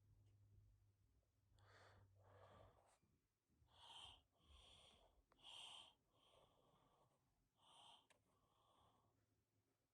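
Faint breathing from a person, about half a dozen soft, heavy breaths from about two seconds in until near the end.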